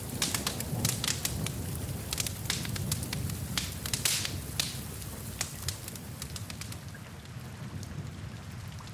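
Wood fire in a fireplace crackling, with many sharp pops over a low steady rumble of flames and an even hiss of rain behind it. The pops come thickly at first and thin out about halfway through.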